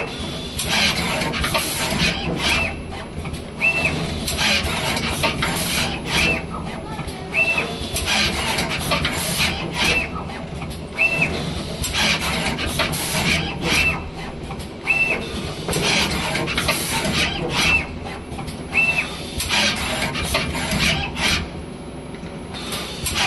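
Automatic wire soldering machine running its production cycle: repeated mechanical clacks and hissing, with a short high beep about every two seconds.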